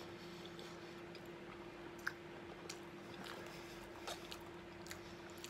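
A man chewing a mouthful of chickpeas with mayonnaise, faintly, with a few light clicks of a fork in the bowl, over a faint steady hum.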